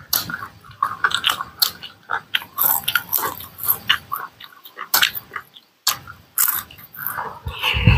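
Close-miked wet chewing, lip smacks and mouth clicks as food is eaten by hand, coming thick and irregular, with a louder low thump near the end.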